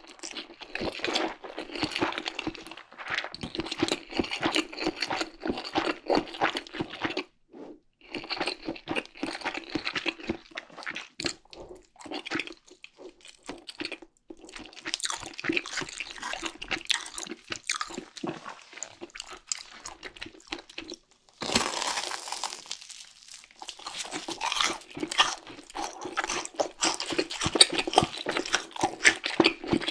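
Close-miked eating sounds: crisp crunching and chewing of fried chicken, in dense runs broken by short pauses, with a brief hiss about two-thirds of the way through.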